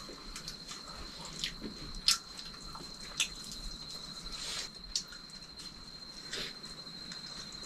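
An insect, likely a cricket, trilling steadily on one high pitch, with about half a dozen short sharp clicks at irregular moments over it.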